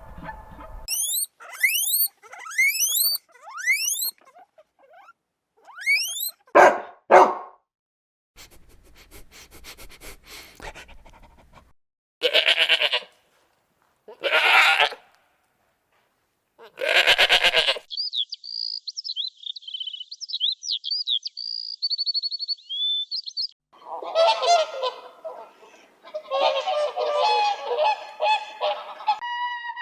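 A run of different animal calls, one clip after another: quick rising whistles, then several loud, separate honking calls, a stretch of high birdsong, and a burst of repeated calls near the end.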